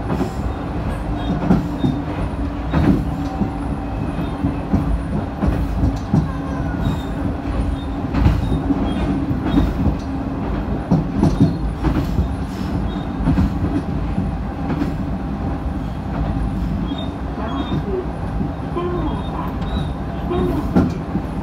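Diesel railcar running along jointed single track: a steady engine and running drone with a low hum, broken by irregular clicks and thumps as the wheels cross rail joints.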